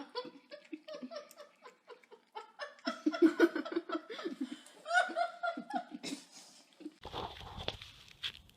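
A person laughing in repeated bursts. About seven seconds in, the laughter cuts off to a steady noise.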